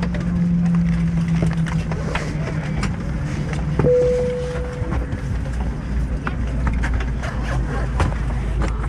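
Airbus A320 cabin noise heard from inside the cabin: a steady low rumble. A low hum sags slightly in pitch and stops about four seconds in, then a short steady tone sounds for about a second, with scattered light clicks.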